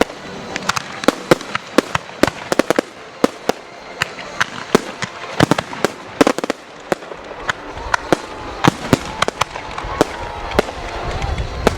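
Fireworks display: a rapid, irregular barrage of sharp bangs and crackles, with a low rumble building over the last few seconds.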